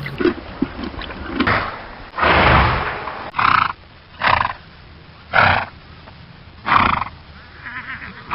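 A recorded horse neighing: one long call, then four shorter calls about a second apart.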